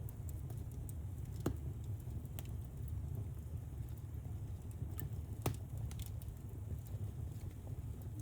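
Wood fire burning in a fireplace: a steady low rumble with scattered crackles and pops, two sharper pops standing out, one about a second and a half in and one about five and a half seconds in.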